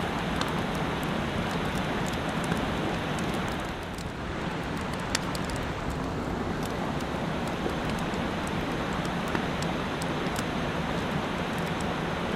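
Steady rushing of a mountain stream, with scattered short, sharp ticks and pops over it.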